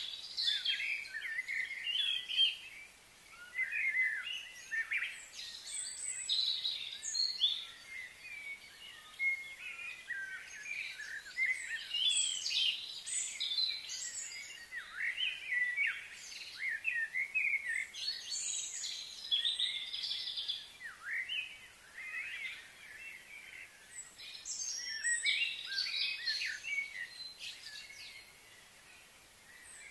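Several birds chirping and singing at once, a busy stream of quick rising and falling calls that rarely pauses, over a faint steady high hiss.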